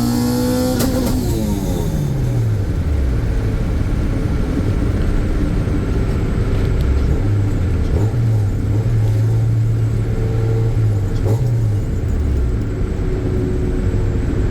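Honda Civic's swapped H-series four-cylinder engine revving high, then dropping off about a second in and falling in pitch over the next couple of seconds. After that it runs fairly steadily, with small changes in revs.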